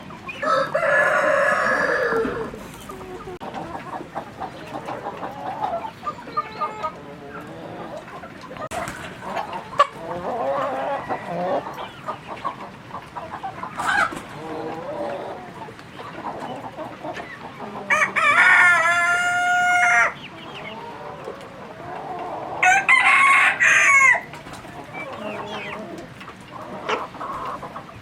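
Chickens: a rooster crows three times, at the start, past the middle and again a few seconds later, each crow about one and a half to two seconds long. Softer hen clucking runs between the crows.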